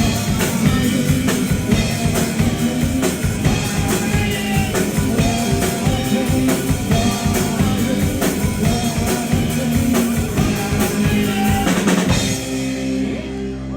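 Live rock band playing with a full drum kit and guitars; about twelve seconds in the drumming stops and a final chord rings on, ending the song.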